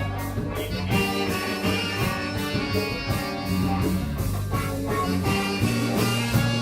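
Live band playing: guitar over a bass line and drums with a steady beat.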